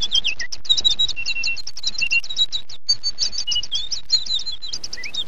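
Birds chirping in a continuous, rapid chatter of short high notes, several a second.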